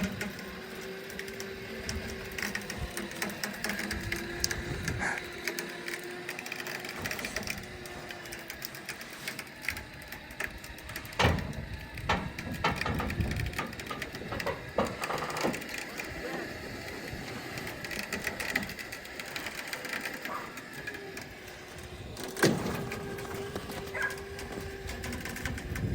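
Century wrecker winch on a Power Wagon tow truck winding in cable on a single-line pull under heavy load, with a steady wavering whine and scattered clicks and knocks. Sharp knocks stand out about 11 and 22 seconds in.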